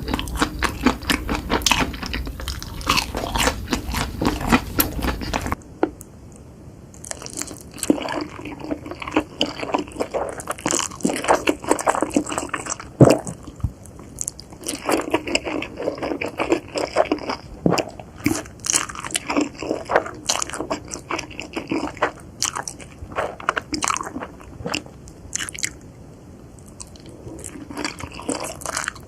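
Close-miked chewing and biting of noodles and chicken, a dense run of irregular crunches, clicks and mouth sounds. The background hiss drops away about six seconds in, and the chewing carries on.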